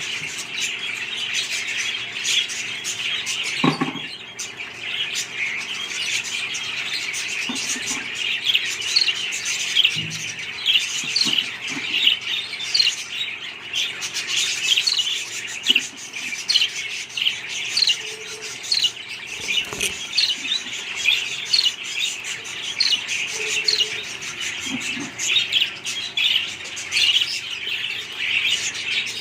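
A flock of budgerigars chattering: a constant stream of short, rapid, overlapping chirps and warbles, with an occasional soft knock.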